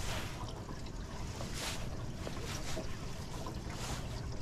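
Wind buffeting the microphone over water lapping against a small aluminum fishing boat, a steady low rumble with a few brief swishes.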